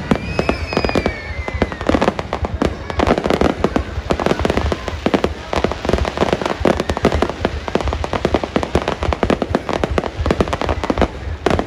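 Fireworks display: a dense, continuous barrage of bangs and crackles over a low rumble, with a brief falling whistle near the start.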